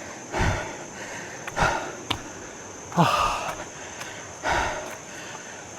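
A man breathing hard after a steep climb: four heavy exhales about every second and a half, the loudest a voiced, sighing breath about three seconds in.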